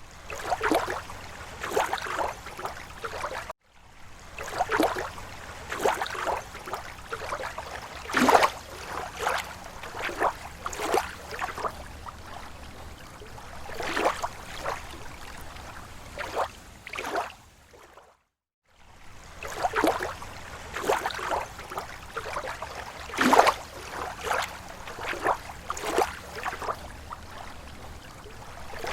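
Small waves lapping against a lake shore: irregular splashes and gurgles every half second or so, over a steady wash. The sound cuts out briefly twice, near the start and about two-thirds of the way through.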